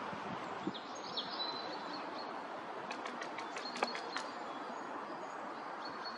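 Small birds chirping: a few short high calls about a second in and a quick run of sharp ticking notes near the middle, over a steady background hiss of outdoor noise.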